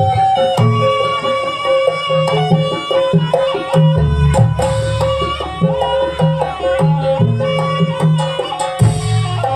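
Live traditional East Javanese (Banyuwangi) dance music: a sustained melody instrument with many overtones playing over a steady rhythm of hand drums and percussion.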